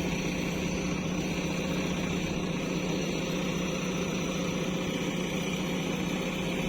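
Diesel engine of a heavy earth-moving machine running steadily at constant speed, an even hum with no revving.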